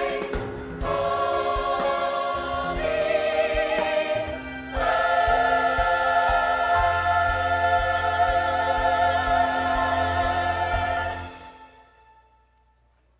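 Church choir singing with accompaniment, ending on a long held chord that fades out near the end.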